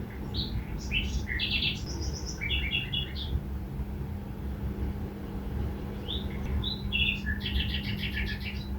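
A songbird singing two phrases of quick, repeated chirping notes, the second starting about six seconds in, over a steady low hum and rumble.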